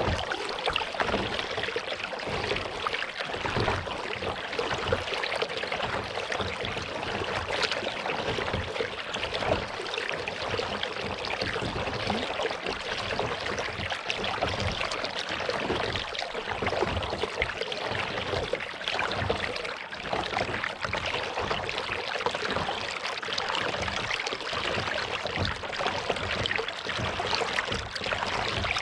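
Lake water splashing and trickling around a kayak being paddled, a steady fine crackle of water with no pauses.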